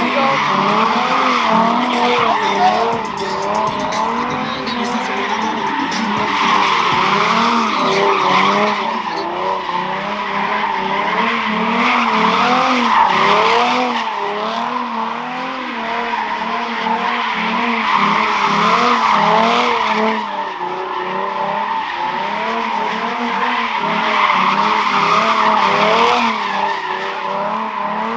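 A car's engine revving up and down over and over, with tyres screeching, as the car slides at a car meet.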